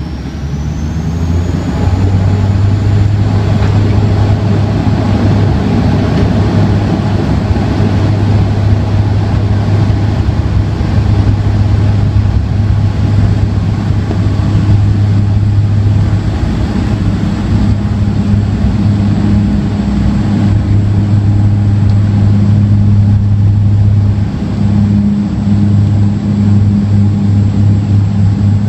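Dash 8 Q400's two turboprop engines heard from inside the cabin, coming up to takeoff power: the sound swells over the first couple of seconds as a high turbine whine rises. It then settles into a loud, steady propeller drone with a deep hum that holds.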